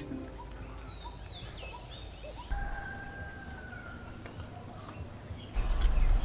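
Birds chirping and whistling over a steady high-pitched insect drone. About five and a half seconds in, a louder low rumble sets in, with a few sharp clicks.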